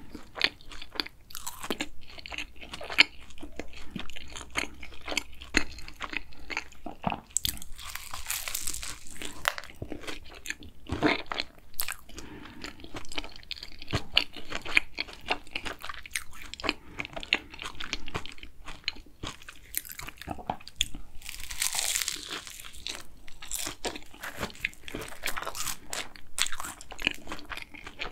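Close-miked eating of a chocolate crumble cronut: crisp pastry and crumble topping crunching under the teeth, then chewing. There are louder bursts of crunching twice, about a third of the way in and again past the middle.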